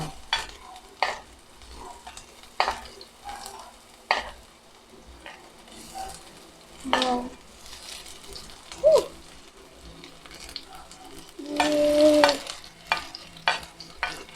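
Garlic and onion sautéing in hot oil, sizzling, with a spatula scraping and knocking against the pan in frequent sharp clicks. Near the end a louder held tone lasts about a second.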